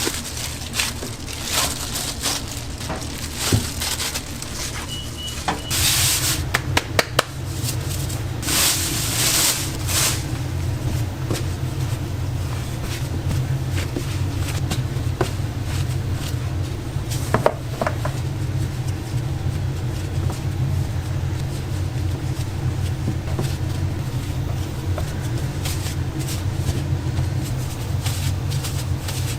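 Steady low machine hum that gets louder about six seconds in, with scattered clatter and a few short hissing bursts of kitchen work.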